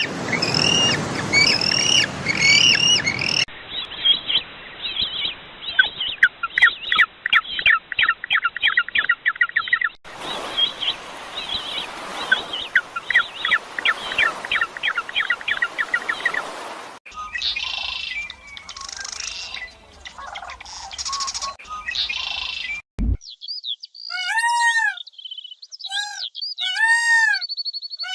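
Birds chirping and calling in a run of short clips cut one after another, with fast repeated chirps for most of the time. Near the end come a few separate clear, arching calls, each rising and then falling.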